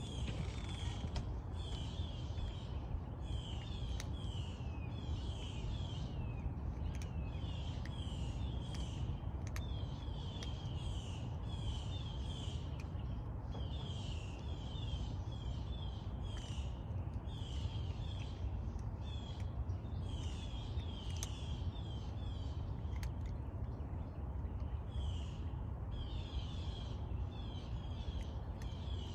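Birds calling over and over in quick runs of short, falling, high-pitched notes, with a steady low rumble underneath.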